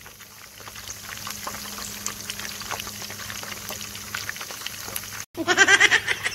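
Batter-coated squid pieces deep-frying in hot oil in a frying pan, a steady sizzle with many small crackling pops as the pieces are turned with chopsticks. It breaks off suddenly about five seconds in, and a loud child's voice with sliding pitch follows.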